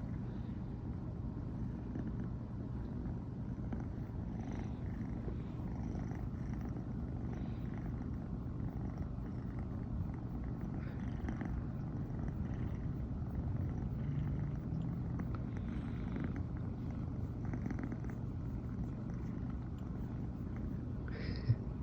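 An American Shorthair cat purring continuously, a steady low rumble. There is a brief click near the end.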